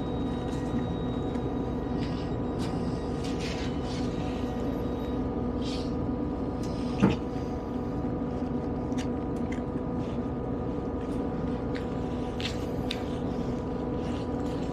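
Steady hum of a diesel multiple-unit train heard from inside the carriage, with several held engine tones and faint rattles and ticks. A single sharp click or knock about seven seconds in is the loudest sound.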